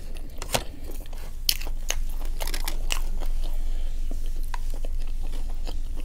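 Close-miked chewing and biting of a Raising Cane's fast-food meal, with scattered crunches and wet mouth clicks.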